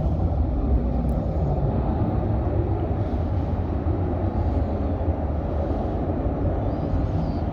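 Jet noise from a McDonnell Douglas F-15C Eagle's twin Pratt & Whitney F100 turbofans on departure: a loud, steady low rumble that eases slightly as the jet moves away.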